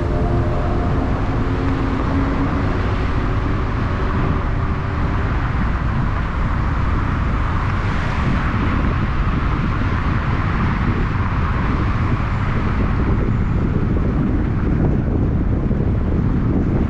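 Steady road and engine noise of a moving car, an even rumble with a hiss above it.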